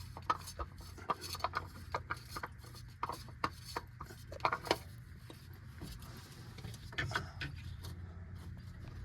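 A drained, punctured oil filter being unscrewed from its housing: a run of short scrapes and clicks of the metal canister turning for about five seconds, then quieter handling, over a steady low hum.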